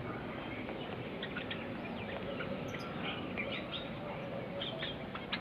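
Zebra finches giving short chirping calls, scattered irregularly over a steady background hiss.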